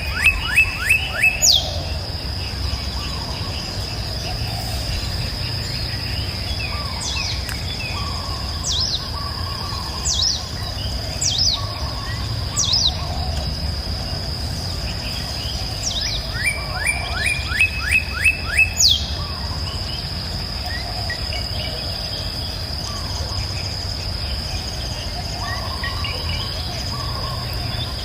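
Songbirds singing: two runs of quick, falling notes, one at the start and one just past halfway, with single sharp down-slurred calls between them. Under the birds runs a steady, high-pitched insect buzz.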